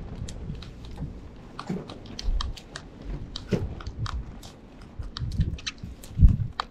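Sparrows pecking at seed: many quick, irregular ticks and clicks of beaks on food, with a few dull low thumps near the end.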